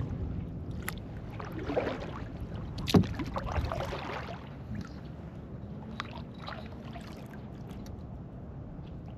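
Kayak paddling in calm, shallow water: paddle dips and swishes with a few sharp knocks, the loudest about three seconds in, quieter in the second half.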